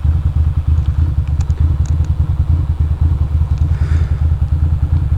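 Ducati Monster's V-twin engine idling with an even, lumpy pulse while the bike stands still, with a few faint ticks about a second or two in.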